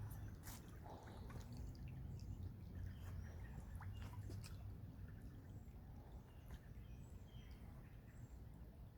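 Faint outdoor ambience: a few short bird chirps and scattered small clicks over a steady low rumble.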